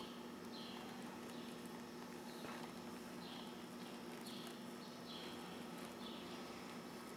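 A short, falling chirp repeated about once a second, like a small bird calling, over a steady low hum.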